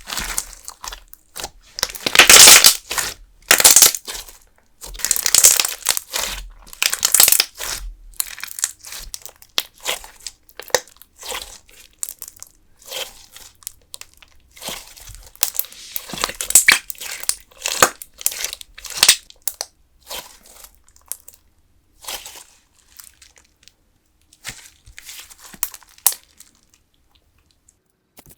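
Putty-style clear slime being squeezed and stretched by both hands, making irregular bursts of sound each lasting a fraction of a second. They come thick and loud over the first eight seconds or so, then grow sparser and quieter toward the end.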